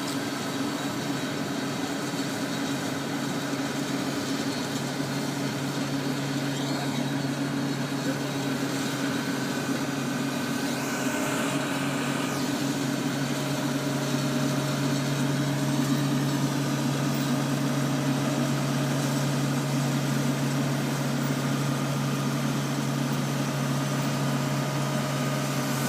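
Crane engine running steadily, a low even drone that gets a little louder partway through as the crane works.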